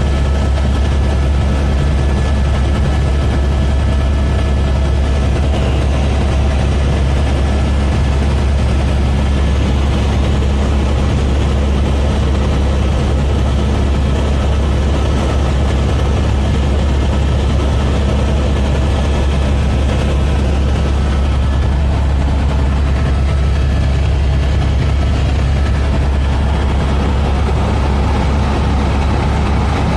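Helicopter engine and rotors droning steadily, loud and unchanging, with a heavy low hum and faint steady whines above it.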